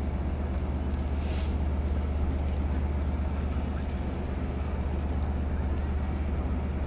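EMD DM30AC diesel locomotives standing at idle, a steady low drone. A short hiss of released air sounds about a second in.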